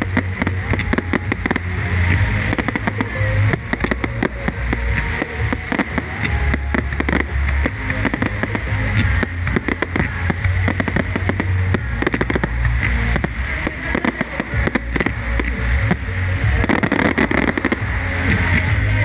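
Fireworks bursting and crackling in rapid, continuous succession over loud music with a heavy bass.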